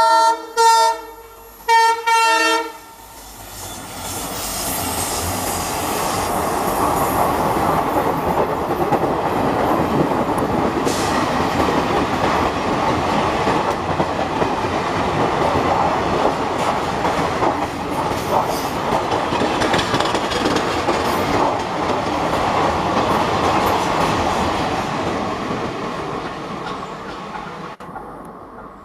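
WDP4 diesel locomotive's horn sounding in short blasts in the first few seconds, the last one the longest. Then the locomotive and its passenger coaches pass, a steady roar of wheels on the rails that fades near the end as the last coach goes by.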